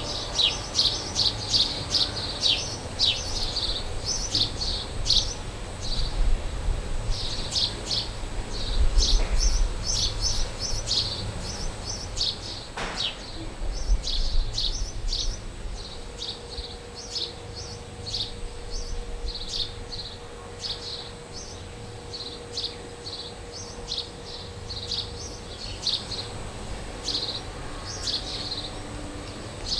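Small birds chirping and calling at a farmyard, a steady stream of short, quick high chirps, with a low rumble underneath.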